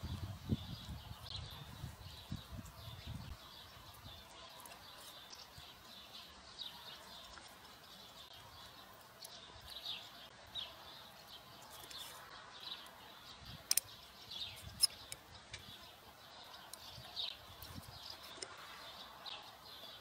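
Small birds chirping in many short, repeated calls, faint in the background. There is low rumbling in the first few seconds and two sharp clicks about two-thirds of the way through.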